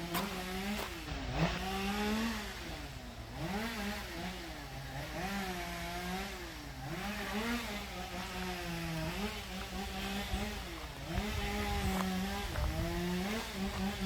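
A small engine running and repeatedly revving up and dropping back, its pitch rising and falling every second or two, over a low rumble.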